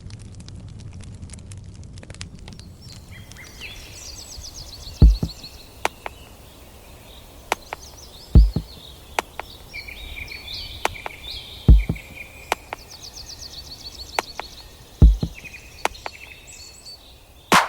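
Birds singing with repeated trills and chirps over outdoor ambience, broken by four heavy low thumps about three and a half seconds apart. Light crackling fills the first couple of seconds.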